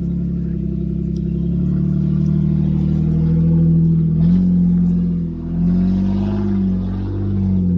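A four-wheel-drive vehicle's engine working at low revs while crawling a steep, rough track. Partway through, the throttle is opened and eased several times, so the engine note rises and falls.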